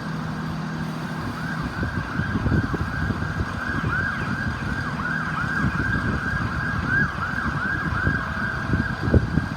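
Diesel train pulling away from the platform: a low engine rumble, with a high whine that rises and falls over and over, about twice a second, through most of the stretch.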